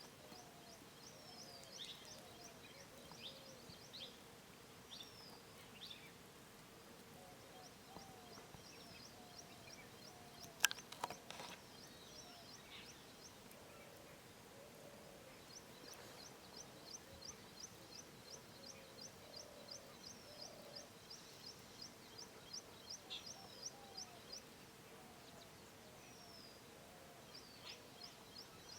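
Faint birdsong from several birds: scattered high chirps, lower sliding whistled calls, and a fast, even run of repeated high chirps through the middle. A single sharp click sounds about 11 seconds in.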